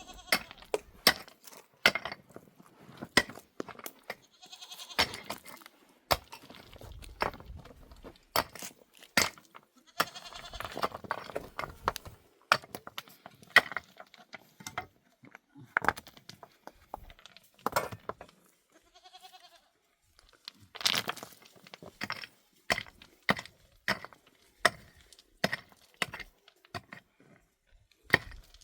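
Sheep and goats bleating now and then, among many sharp clicks and knocks.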